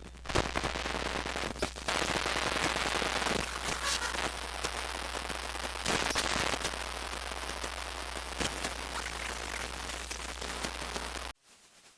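Radio static: a dense crackling hiss with scattered clicks over a steady low hum, cutting off suddenly near the end.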